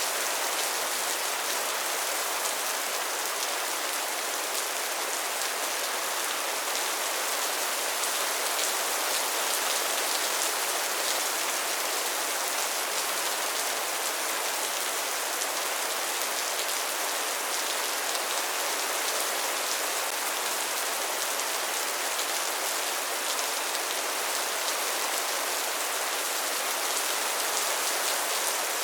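Steady rain falling: an even, unbroken hiss with many fine drop ticks through it.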